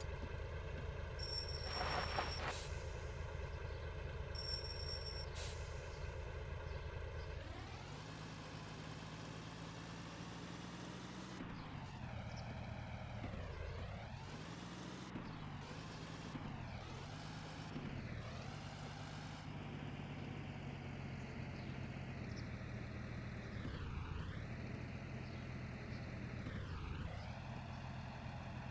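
Tractor engine running under load, steady and low at first, then speeding up about a quarter of the way in; its speed then dips and recovers several times before settling.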